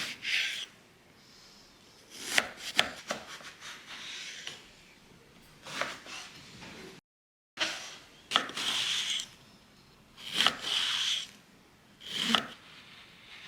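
A kitchen knife chopping on a wooden cutting board in short runs of sharp knocks, between roughly second-long scraping sounds. The sound drops out completely for about half a second in the middle.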